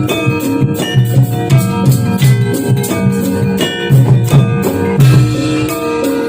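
Music accompanying a kuda kepang (jathilan) horse dance: drums keep a steady rhythm under ringing, pitched struck instruments.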